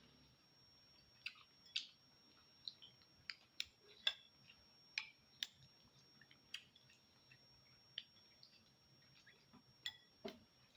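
Faint eating sounds from a bowl of spicy meatball soup: about a dozen short, irregular clicks and light clinks of a spoon and mouth, some with a brief ring.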